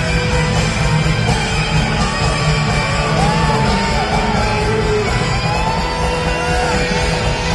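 Live rock band playing a loud instrumental passage, with bending lead guitar lines over drums and bass, and yells from the crowd.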